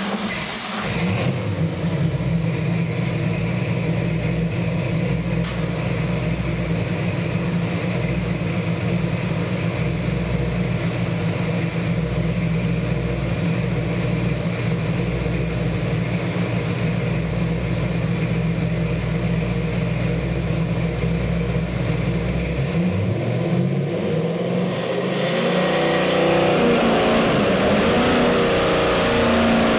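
383 cubic-inch small-block Chevy stroker V8 with a hydraulic roller cam and Edelbrock carburettor running on an engine dyno. It holds a steady speed for most of the time, then its pitch rises and it gets louder as the revs climb near the end.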